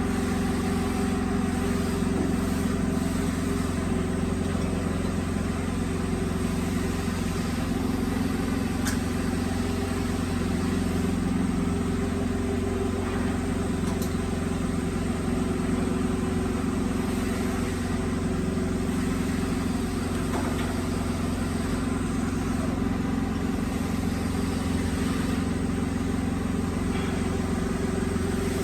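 Woodworking machinery running with a steady, unchanging drone and hum.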